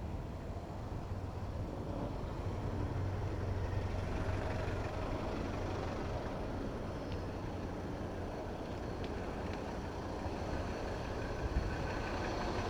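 City road traffic heard from a bicycle: motor vehicle engines running steadily with a low hum, among general traffic noise.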